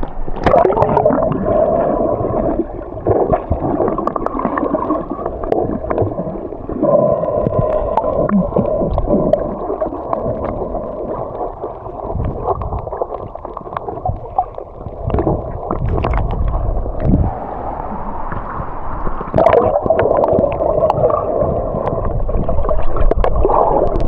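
Muffled underwater gurgling and water movement picked up by a camera held underwater while snorkeling, swelling and fading, with a hum running through it.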